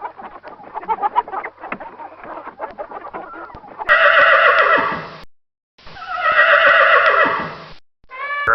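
Farm animal calls: about four seconds of rapid, choppy clucking-like calls, then two long, wavering, drawn-out calls with a short break between them.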